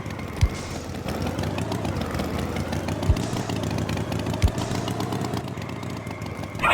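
Tractor engine running steadily, its pitch wavering a little, with three short low thuds.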